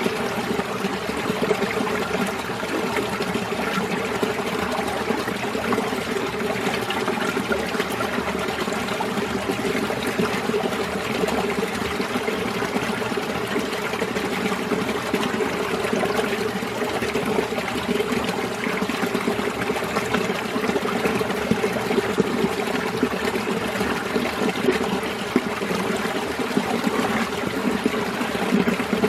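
Winter mountain stream flowing steadily over rocks, a continuous trickling and rushing of water.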